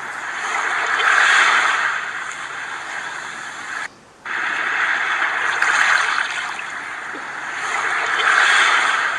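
Rushing sea-water ambience, a steady hiss that swells and eases every two to three seconds like waves, dropping out briefly about four seconds in.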